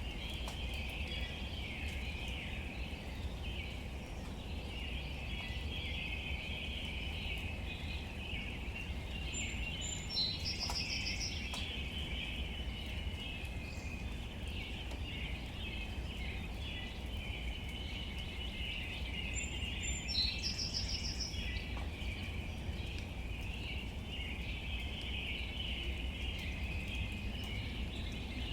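Steady outdoor nature ambience: a continuous high chirring band and a low rumble. A short bird call comes about ten seconds in and again about twenty seconds in.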